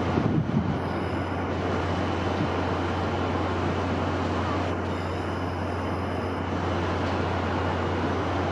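Steady wind noise, a low rumble under a broad hiss, with a few uneven gusts in the first second.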